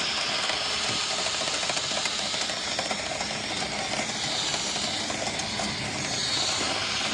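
A drill spins a rotary dryer-vent cleaning brush on rods inside the vent duct, making a steady whirring hiss with a fast rattle.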